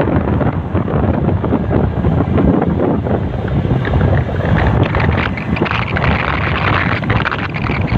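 Wind buffeting the microphone: a loud, rough rumble that rises and falls in gusts.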